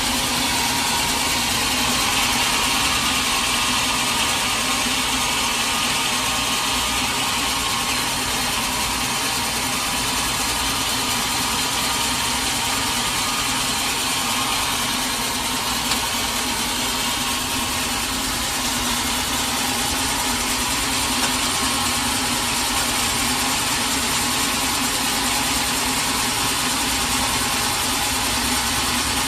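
Sawmill machinery running steadily, an even engine drone with a hiss on top.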